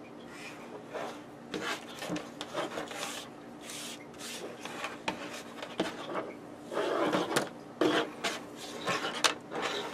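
Hands working at a small bench: irregular rubbing and scraping of small objects, busiest in the second half, with a sharp click near the end.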